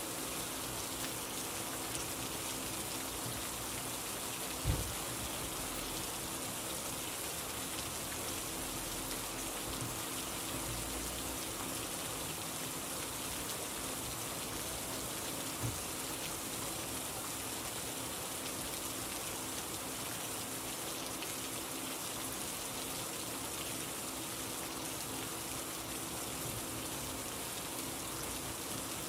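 Steady rain falling, an even unbroken hiss, with a faint low hum beneath it. A short low thump sounds about five seconds in and a smaller one near the middle.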